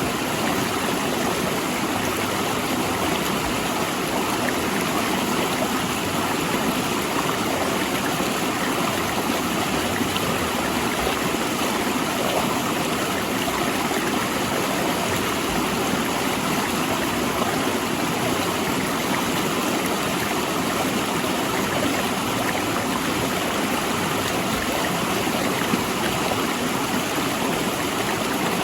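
Mountain river rushing and splashing between large rocks, a steady, unbroken roar of water.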